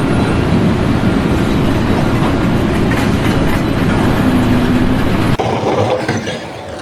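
Loud, steady mechanical rumble, which breaks off suddenly about five seconds in for a quieter stretch.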